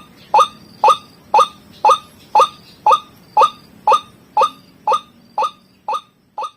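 White-breasted waterhen (ruak-ruak) calling: a steady run of short, repeated notes, about two a second, used as a bird-trapping lure call. The notes grow fainter over the last second or so.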